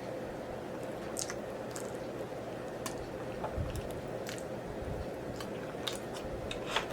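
Close-miked chewing with scattered wet mouth clicks and lip smacks, over a faint steady hum.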